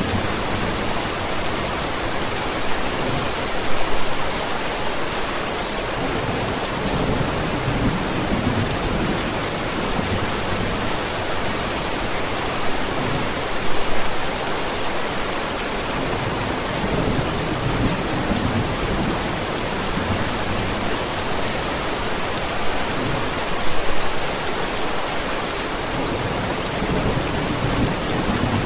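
Steady heavy rain with rolls of thunder rumbling in the low end; the thunder swells most strongly about four seconds in, around the middle, and near the end.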